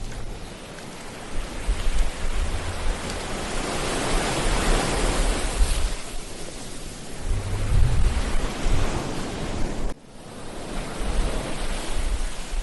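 Ocean waves breaking and washing up a beach, one surge swelling and fading over a few seconds in the middle, with gusts of wind rumbling on the microphone. The sound drops out abruptly for a moment about ten seconds in, then picks up again.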